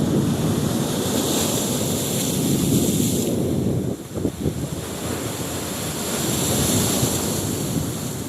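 Wind rushing and buffeting the microphone in a steady, loud roar, with a brief lull about four seconds in.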